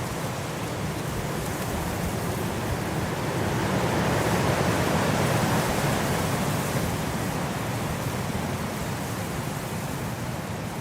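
Blizzard wind blowing as a steady rush of noise, swelling in a gust about halfway through and then easing off.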